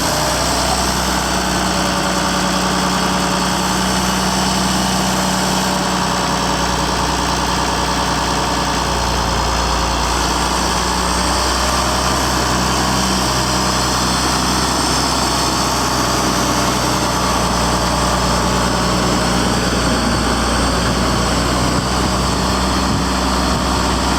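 Farmall 1066 tractor engine running steadily at idle, its note dropping a little about halfway through.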